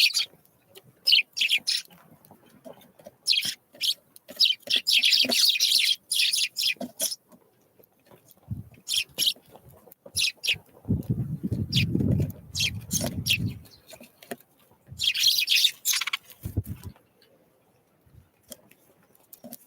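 Small songbirds calling at a winter feeder: clusters of short, high chirps and call notes on and off throughout. A low muffled rumble sounds for a few seconds near the middle, with a couple of dull thumps on either side of it.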